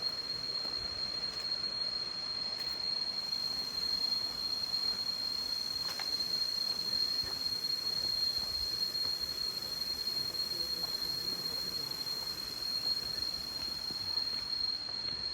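A steady, high-pitched insect drone holding one unbroken tone over a broad, even hiss.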